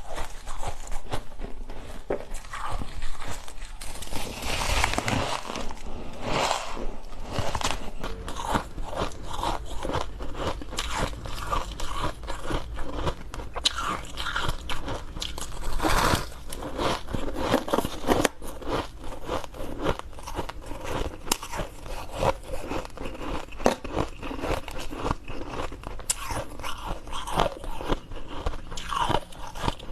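Ice being bitten and chewed close to the microphone: a continuous run of crunches and crackles, with a few louder crunches as fresh pieces are bitten.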